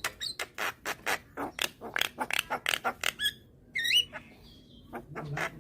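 Javan myna (jalak kebo) calling: a fast run of harsh, clicking, rasping notes, then a brief pause and a short rising whistle, with rasping notes starting again near the end.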